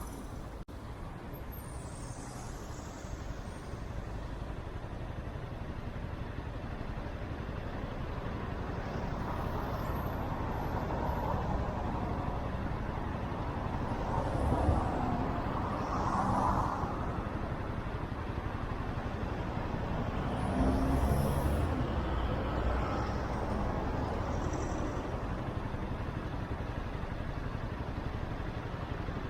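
Motorcycle engine and road noise on a ride, with passing traffic; it swells louder twice in the middle.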